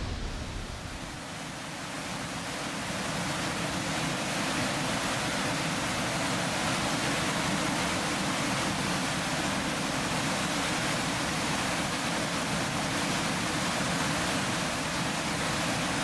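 Waterfall crashing into its plunge pool with heavy spray: a steady, dense rush of water that grows a little louder over the first few seconds, then holds even.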